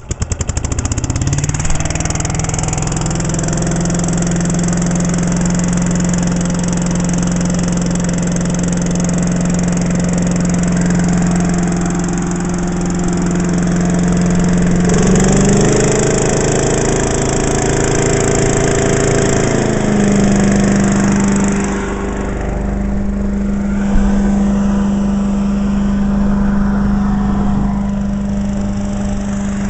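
Small gasoline engine of an Agri-Fab leaf vacuum and wood chipper running just after being started, settling to a steady speed. About halfway through its speed goes up and wavers for several seconds, then it settles into a slightly faster steady run, freshly serviced after a carburetor bowl cleaning.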